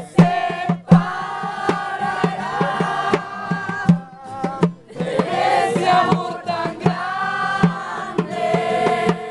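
Voices singing a worship song over regular drum hits.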